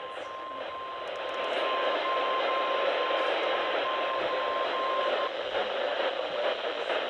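NOAA Weather Radio warning alarm tone, a single steady 1050 Hz tone heard through a weather radio receiver. It is broken by short dropouts and stops about five seconds in, leaving steady radio hiss. The tone signals that a warning, here a snow squall warning, is about to be broadcast.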